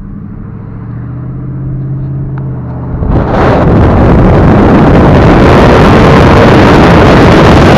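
2018 Dodge Challenger Scat Pack's 6.4-litre Hemi V8 with the mid-muffler deleted, heard from the cabin with the window down. It cruises with a low, steady drone, then about three seconds in the throttle opens hard and the exhaust turns crazy loud and stays there.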